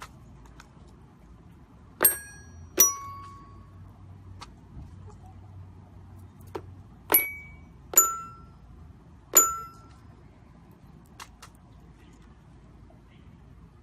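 Toy piano notes struck one at a time: five single ringing notes at different pitches, two close together a couple of seconds in and three more around the middle, each dying away quickly.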